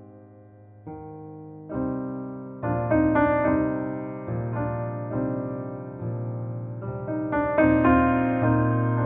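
Slow, gentle piano music: chords struck one after another, each ringing out and fading before the next.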